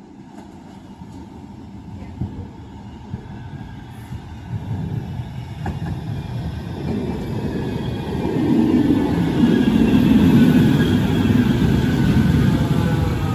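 Manchester Metrolink tram (Bombardier M5000) approaching and drawing near, growing steadily louder, with wheels rumbling on the rails, a couple of clicks early on, and a motor whine of several falling tones in the second half.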